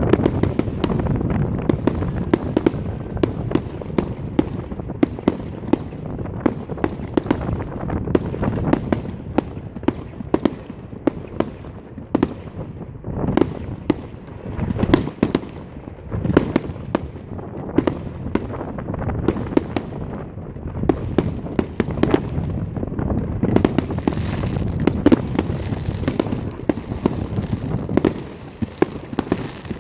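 Fireworks display: a continuous barrage of bangs and crackling bursts going off in quick succession, several a second, with a few louder bangs standing out.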